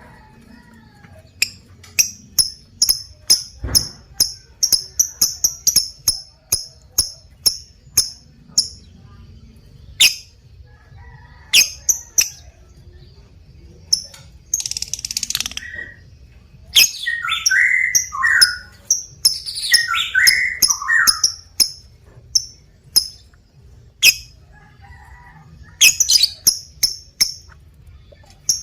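Lovebird chattering in the long call that keepers call ngekek: runs of sharp, high chirps with a harsh screech about halfway through and lower, sliding notes just after.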